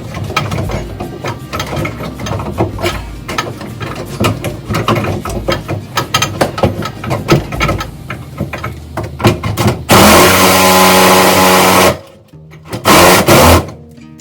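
Irregular clicking and knocking of hand work on the wall box, then a power cutting tool runs loudly for about two seconds, stops, and runs again briefly near the end.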